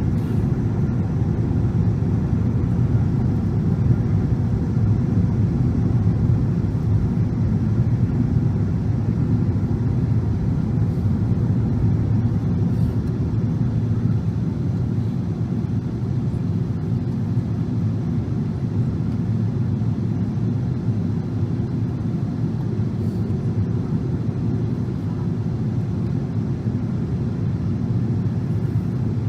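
Steady low rumble of jet engine and airflow noise in the cabin of a Boeing 777-300 on final approach, easing slightly over the second half.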